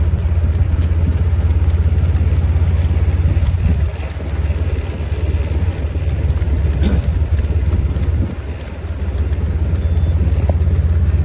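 Steady low rumble of a vehicle engine running, with a noisy haze over it.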